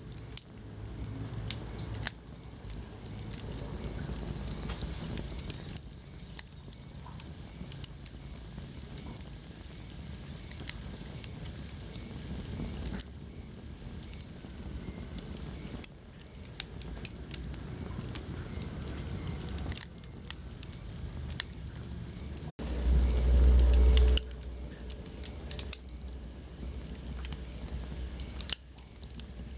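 Wood fire burning in a fireplace, crackling with many small sharp pops over a low rumble of flames. About three quarters of the way in, the sound cuts out for an instant and is followed by a loud low thump lasting about a second and a half.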